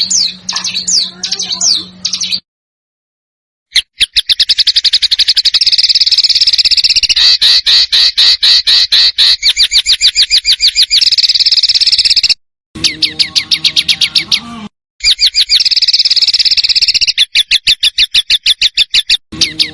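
Recorded songs of small songbirds, spliced together for training competition birds: fast runs of sharp, rapidly repeated chirping notes. The sound cuts out abruptly to dead silence three times where the clips are joined.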